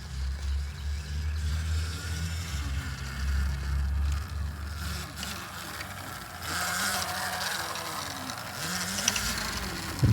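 Electric bike being ridden, with wind rumbling on the microphone. In the second half the motor's hum rises in pitch a few times.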